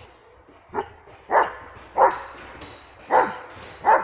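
A protection-trained dog barking: five loud, single barks in a steady rhythm, under a second apart.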